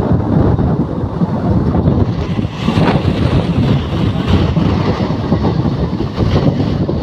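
Passenger train running at speed, heard from outside the coach side: a loud, steady rumble of wheels on the rails, with wind buffeting the microphone.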